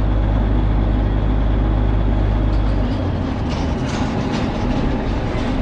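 Steady vehicle rumble and road noise. A deep hum drops away about three seconds in, leaving a rougher rumble.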